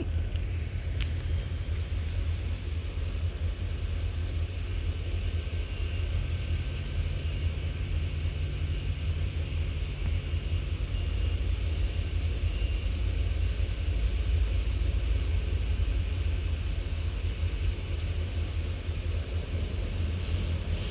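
Deep, steady rumble of a railroad locomotive's engine running, with its low note rising slightly for a few seconds in the middle and a faint high tone coming and going.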